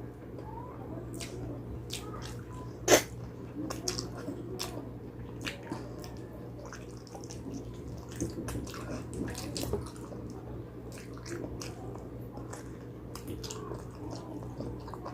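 Wet chewing and mouth smacks from someone eating spicy pig trotters close to the microphone, a string of short sticky clicks with one sharp louder smack about three seconds in.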